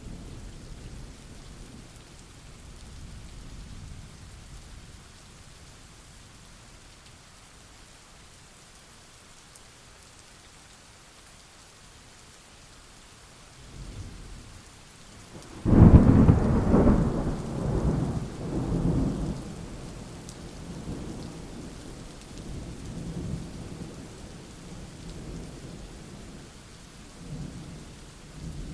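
Thunderstorm: steady rain with rolling thunder. About halfway through, a sharp thunderclap breaks out and rumbles on in several rolls for some seconds, and another rumble starts near the end.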